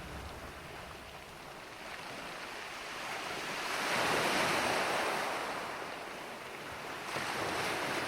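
Ocean surf: waves washing in, swelling up about four seconds in and again near the end.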